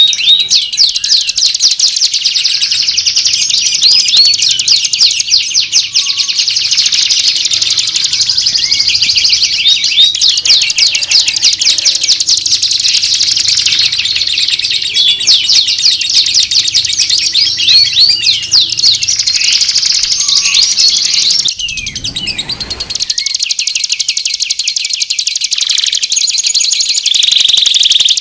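Songbirds singing nonstop: loud, dense, rapid chirps and trills. A little past two-thirds of the way through, the song briefly thins and a low falling whoosh sounds.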